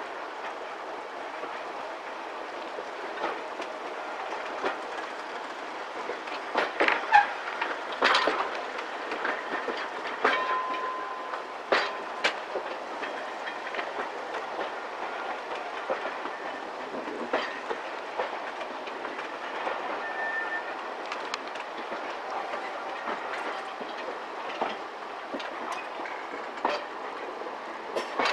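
Heritage railway carriage rolling slowly along the track: steady running noise with wheels clicking and knocking over rail joints and pointwork, and a brief steady wheel squeal about ten seconds in.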